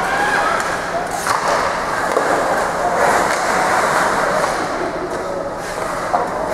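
Rink sound of a hockey game in play: a steady scrape and rumble of skates, with a couple of sharp stick or puck knocks and players' voices calling.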